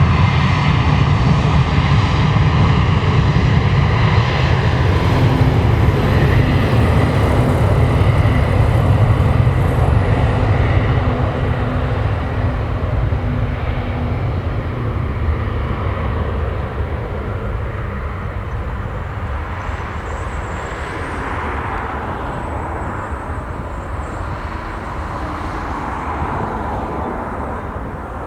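Jet airliner on its takeoff run: loud, steady engine rumble that fades gradually over the last two-thirds as the aircraft moves away.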